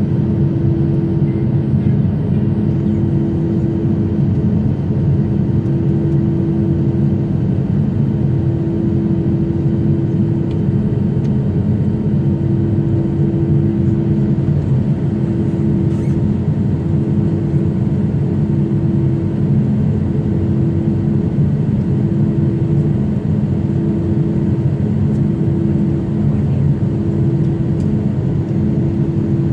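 Steady low drone of jet engines, with several constant hum tones and no rise or fall.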